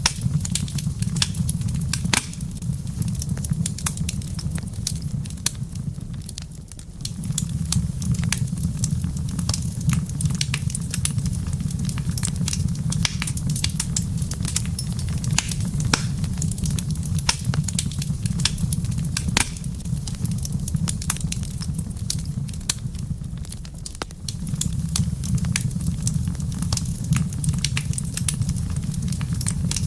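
Wood fire in a fireplace crackling and popping, with sharp snaps scattered throughout over a steady low rumble that dips briefly twice.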